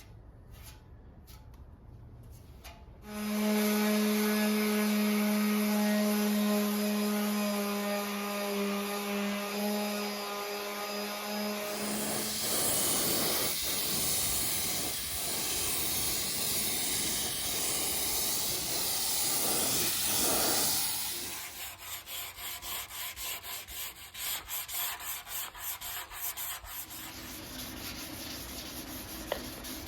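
Shop work on a motorcycle under restoration: a power tool runs with a steady hum for several seconds, then a loud hissing noise, then rhythmic back-and-forth rubbing strokes like hand sanding.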